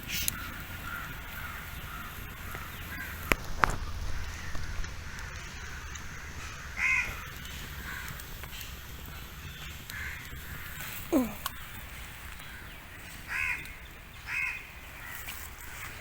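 Birds calling: several short calls spaced a few seconds apart, with a couple of sharp clicks about three seconds in.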